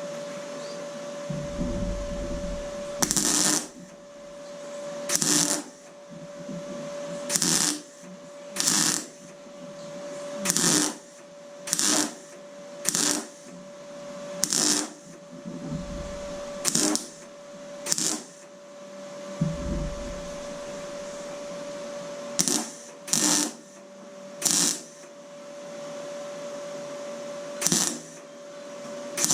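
A welder laying about fifteen short tack welds on thin door sheet metal, each a brief crackling burst well under a second long, spaced one to two seconds apart, over a steady hum. The welds are kept short and spread out to build up the repair without putting too much heat into the panel.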